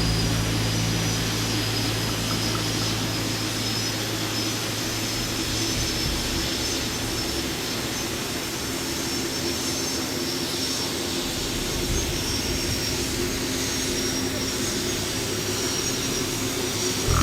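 Boeing 747-400's jet engines running as it comes in to land: a steady broad roar with a thin high whine over it.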